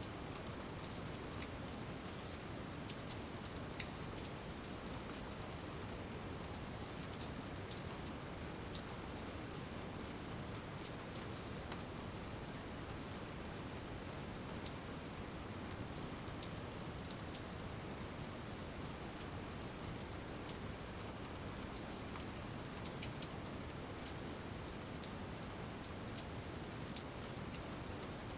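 Steady rain falling, with many individual drops ticking sharply as they strike.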